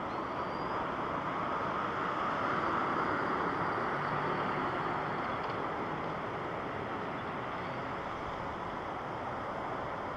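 Jet airliner engines making a steady rush that swells a little two to three seconds in, then eases off slightly.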